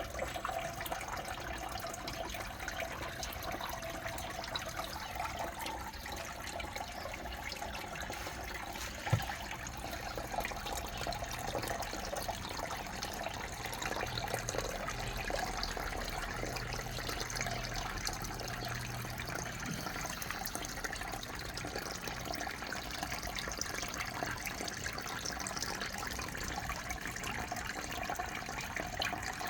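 Water from a small waterfall falling and splashing steadily, with a single short knock about nine seconds in.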